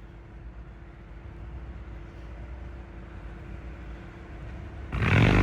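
Steady low rumble with a faint hum under it; about five seconds in, a loud dispatch radio transmission keys up with a sudden burst of stacked tone.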